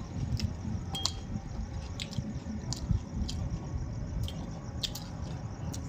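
Soft handling noises: scattered thin clicks, roughly one a second, over a low steady rumble.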